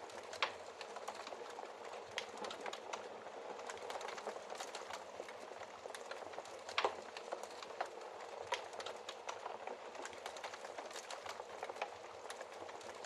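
Fire crackling in a fireplace: a steady bed of small crackles with scattered louder pops, the sharpest about seven seconds in.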